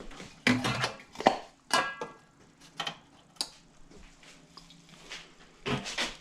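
Hand tools and small metal parts clinking and clattering as they are handled, in a handful of separate knocks, one about two seconds in ringing briefly.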